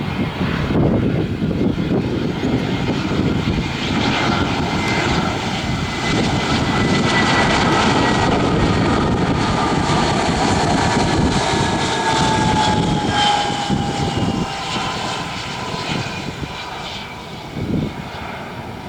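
Airliner's engines as it passes close by: a loud rumble that builds in the first second and eases off after about two-thirds of the way through. A high engine whine rides on top and slowly falls in pitch as the aircraft goes by.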